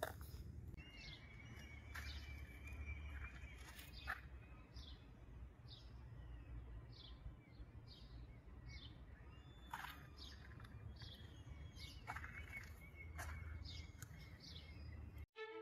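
A bird chirping faintly outdoors, one short high note repeated every half second or so, over a low background rumble, with a few sharp clicks.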